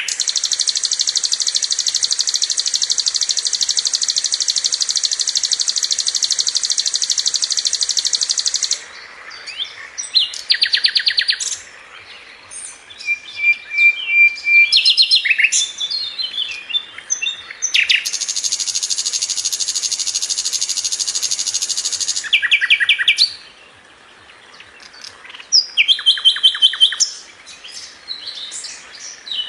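Sikatan londo flycatcher singing: a long, very fast, high-pitched trill held for about nine seconds, then a run of varied quick chirps and rapid note strings, and a second long trill partway through.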